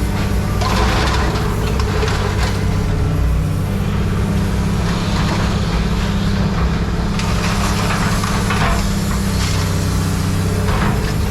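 A heavy machine's engine running steadily, with scrap clattering and scraping several times over it.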